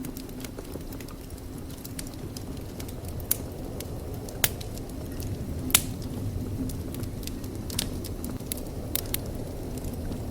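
Wood fire burning in a fireplace: a steady low rumble with irregular crackles and sharp pops, the loudest a few seconds in.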